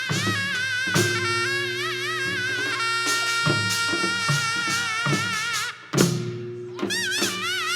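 Korean traditional ensemble music for a Jindo drum dance: a wind instrument holds a wailing melody with wide, wavering vibrato over barrel-drum strokes. A brief hush comes just before a sharp, loud drum stroke about six seconds in.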